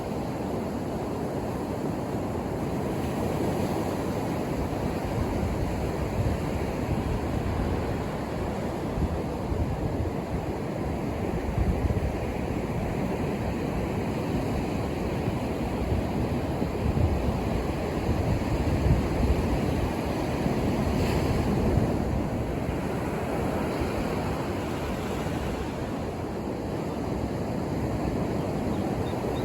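Ocean surf breaking on a beach, a steady rush of waves swelling and easing every few seconds, with some wind noise on the microphone.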